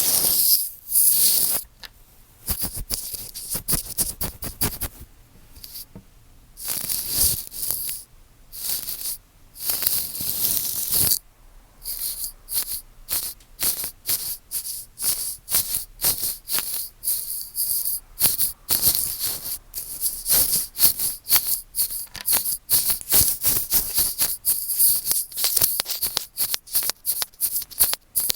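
Earphone microphone being rubbed and scratched vigorously right at the capsule: scratchy, hissing swishes, longer and broken by short gaps at first, then quick repeated strokes about two to three a second.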